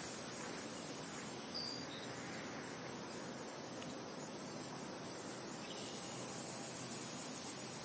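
Steady wind noise, an even hiss, with two brief high chirps about one and a half to two seconds in.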